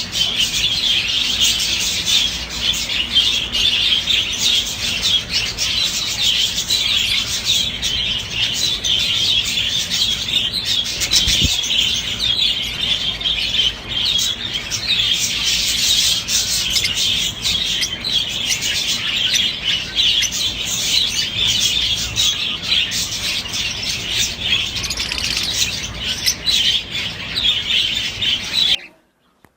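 A flock of cage birds chirping and twittering together in a dense, continuous chatter. It cuts off abruptly near the end.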